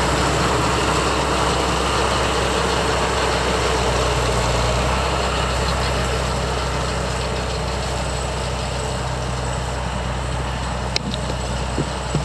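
Farm tractor engine running steadily in the hay field, a continuous low hum with machinery noise over it. A single sharp click comes about eleven seconds in.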